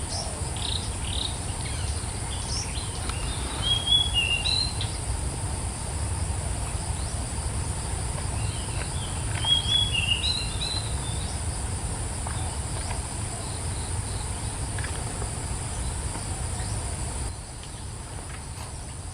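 Steady high-pitched insect drone with birds chirping in short clusters, loudest about 4 and 10 seconds in, over a low rumble.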